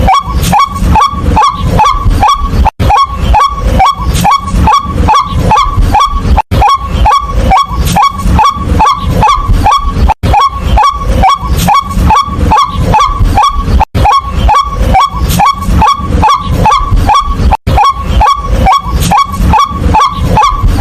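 White-breasted waterhen calling, a fast, monotonous run of loud "kwak" notes at about three a second, each note dipping in pitch. Brief gaps break the run every few seconds.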